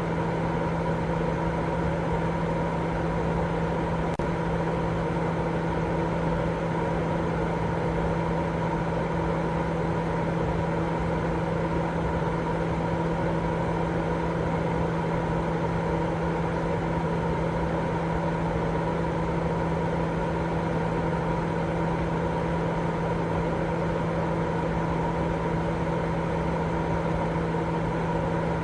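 Continuous sleep white noise: an even, unchanging hiss heavier in the low and middle range, with a steady low hum and a faint higher tone in it, like a running fan or motor.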